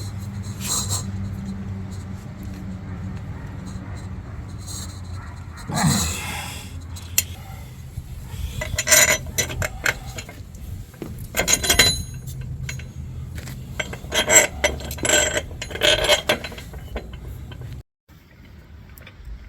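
Metal tools and parts clinking and scraping in several short bursts, over a steady low hum.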